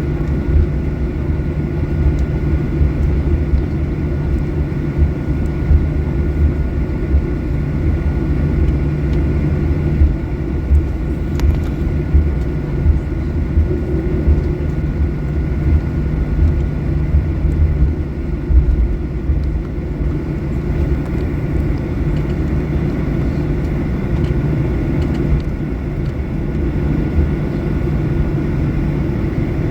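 Steady cabin noise inside a Boeing 737-800: its CFM56 jet engines running with a steady faint whine over a low rumble and small jolts. The jet is rolling on the ground just before takeoff.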